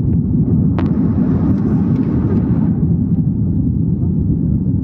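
Aeroplane cabin noise during the climb: a loud, steady low rumble of the engines and airflow, with a faint hiss swelling for a couple of seconds about a second in.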